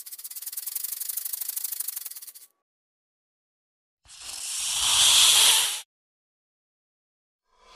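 Snake sound effects: a fast, dry rattle lasting about two and a half seconds, then after a silent gap a hiss that swells and cuts off abruptly, with another hiss starting near the end.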